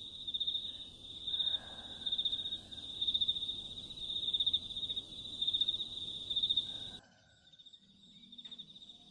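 Crickets chirping in short, high-pitched trills that repeat steadily, over a low outdoor hiss. About seven seconds in, the background hiss drops away abruptly and the chirping carries on more softly.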